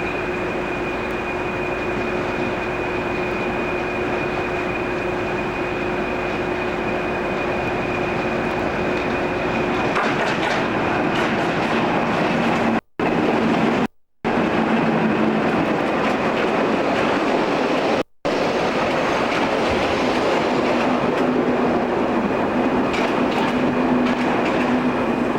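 Portuguese Railways (CP) class 1800 diesel locomotive and its train running on the rails, a steady mechanical sound with a held tone. The sound changes about ten seconds in, and the recording cuts out briefly three times.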